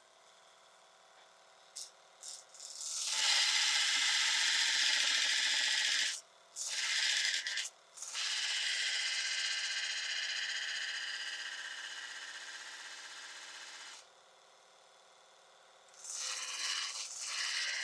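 Mini belt sander running with a faint motor hum, then a steel chisel pressed to the moving belt in several passes: a loud hiss for about three seconds, a short pass, a long pass of about six seconds that slowly fades, a pause with only the motor, and another pass near the end. The chisel's bevel is being ground down toward a 25-degree angle.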